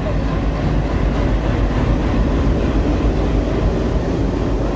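A passenger train running past on the Konkan Railway line: a loud, steady rumble that holds level throughout.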